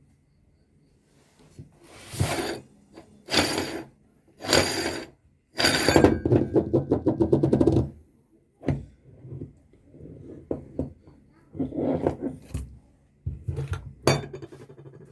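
Meat grinder crunching and grinding Reese's chocolate candy, in several short bursts of crackling and clinking, with one longer rattling stretch of about two seconds near the middle.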